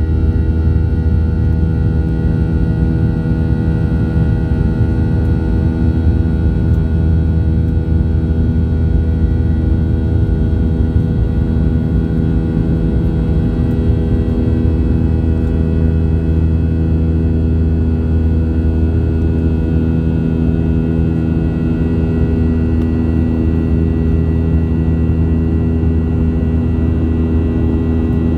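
Boeing 737-900ER's CFM56-7B jet engines and airflow heard from inside the passenger cabin, a steady loud rumble with constant humming tones.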